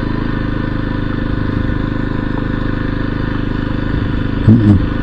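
Kawasaki KLX 300 single-cylinder four-stroke engine running steadily at low speed, without revving. A short vocal hum breaks in near the end.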